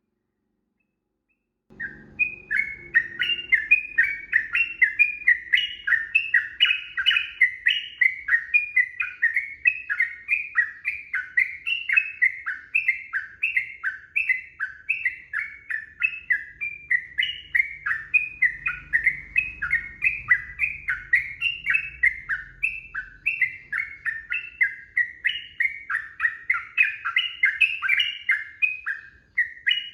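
Yellow-vented bulbul singing a long, unbroken run of quick, bubbly chattering phrases, starting about two seconds in.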